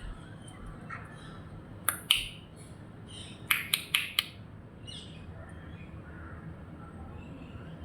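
Bird calls, short and harsh: one about two seconds in, then a quick run of four sharp calls around three and a half to four seconds in.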